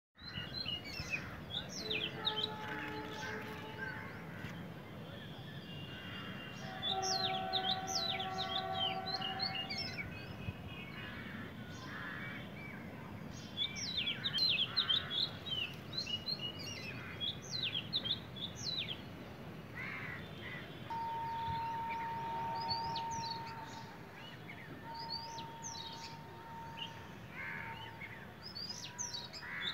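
Small birds chirping in quick clusters of short, high chirps. Now and then, long steady tones sound underneath them.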